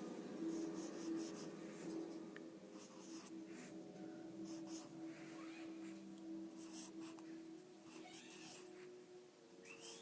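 Short scratching strokes of a drawing tool on paper, in irregular bursts, over a steady low hum.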